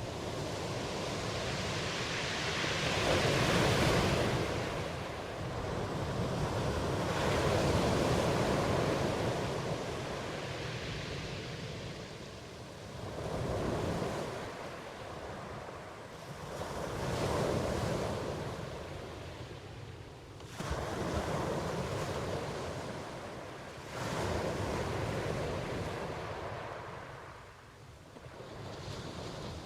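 Ocean surf: waves breaking and washing in, the rush swelling and dying away roughly every four seconds.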